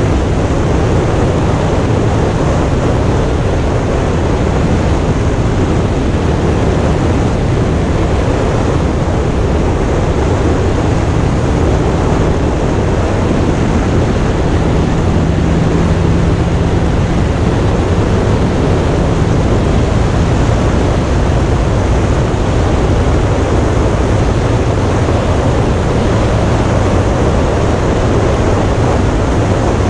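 Indian motorcycle engine running steadily under way, with heavy wind rushing over the microphone. The engine's low hum rises a little about halfway through.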